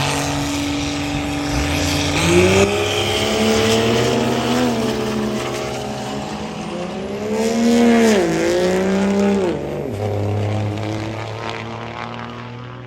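High-horsepower truck engine revving hard. Its pitch climbs, falls sharply, climbs again and falls twice more, then settles to a steady lower note.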